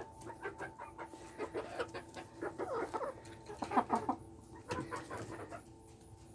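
Polish chickens clucking, a run of short clucks that is loudest about four seconds in, over a faint steady hum.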